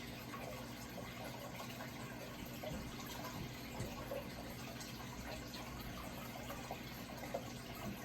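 Running water: a steady rush with small irregular splashes.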